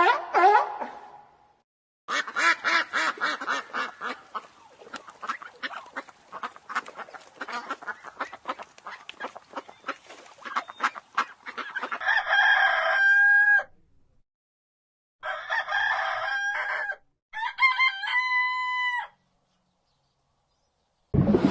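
Chickens: a long run of rapid clucking, then a rooster crowing three times, each crow about one and a half seconds long.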